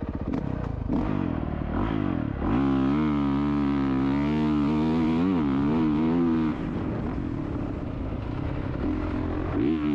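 Motocross motorcycle engine revving under varying throttle, the pitch rising and falling as the throttle is worked. It is held high for a few seconds, eases off about six and a half seconds in, and picks up again near the end.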